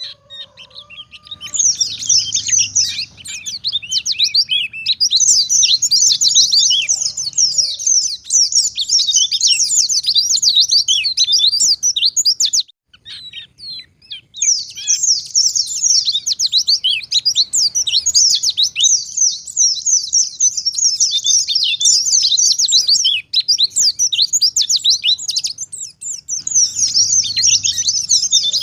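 White-eye (pleci) singing a fast, unbroken stream of high, quick chattering notes, the rapid 'nembak' song of a wild-caught bird. It breaks off for about a second and a half near the middle, then carries on.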